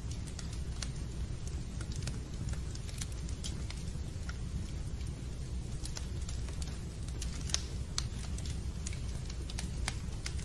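Wood fire crackling in a fireplace: irregular sharp pops and ticks over a low, steady rumble.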